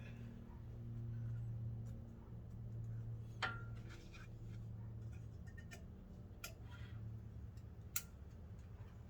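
Faint scattered clicks and taps of metal brake parts and tools being handled during caliper reassembly, over a steady low hum.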